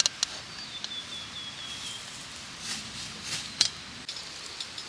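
A bird calling outdoors: a quick run of short high notes that fall slightly in pitch over about a second and a half, then a few faint chirps near the end. A few faint ticks sound in between.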